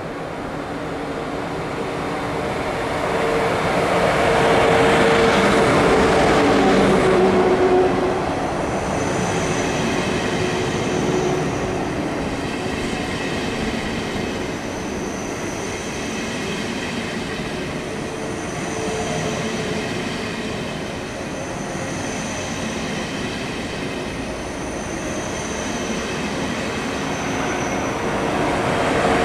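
Two coupled ICE 2 high-speed trains passing slowly at about 30 km/h. The sound swells as the leading power car goes by a few seconds in, then the coaches roll past with a steady rumble and faint high-pitched squeals coming and going every few seconds.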